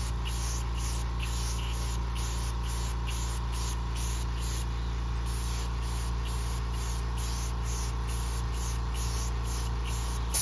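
Airbrush spraying paint in short hissing bursts, about two a second, laying down light first coats, over the steady hum of the air compressor that feeds it.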